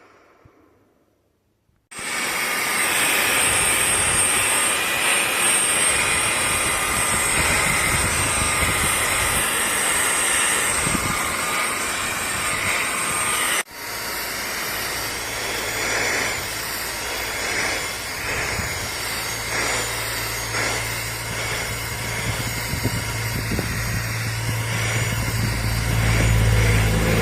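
Cordless handheld vacuum/blower motor switched on about two seconds in, running steadily with a high whine. After a sudden break partway through, it carries on with a low hum underneath.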